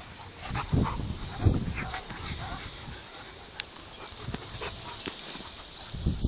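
A dog's noises, mixed with irregular rustling and a few knocks; the loudest knock comes about one and a half seconds in.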